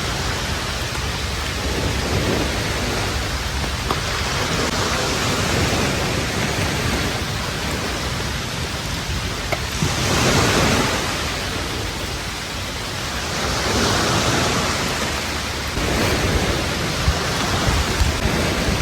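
Ocean surf washing onto a beach, a steady wash that swells twice as waves break, about ten and fourteen seconds in, with a low rumble of wind on the microphone.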